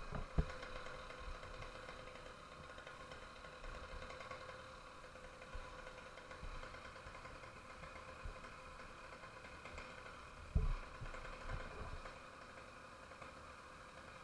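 Small engine of a motorized bicycle running steadily at a constant speed, with a couple of low thumps about ten and a half seconds in.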